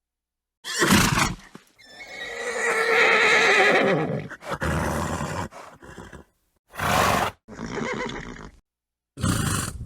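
A horse whinnying: a short burst, then a long wavering neigh of about two seconds, followed by several short noisy blows, typical of a horse snorting.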